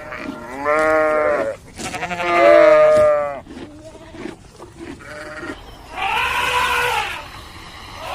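An animal calling in three long, pitched calls of about a second each. The second is the loudest, and the third, near the end, is higher.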